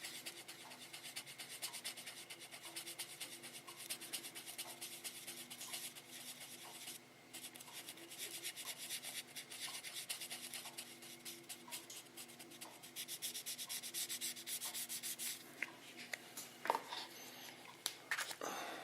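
Fine 2400-grit wet sandpaper rubbed back and forth in quick, short, gentle strokes over the body of a plastic scale model car, a steady soft rasping that pauses briefly about a third of the way in. A few light knocks come near the end.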